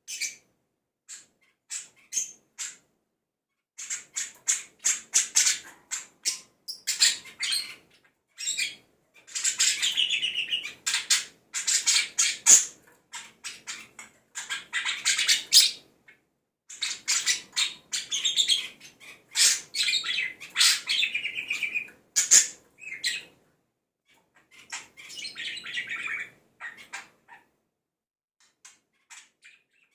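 Pet budgerigar singing in rapid chattering phrases of high chirps and warbles, with short pauses between phrases. Its song is filled with mimicked calls of other birds.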